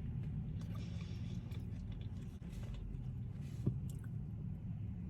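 Close-up chewing of a sandwich, with soft wet mouth noises and faint crackles over a steady low hum; a single sharp click about three and a half seconds in.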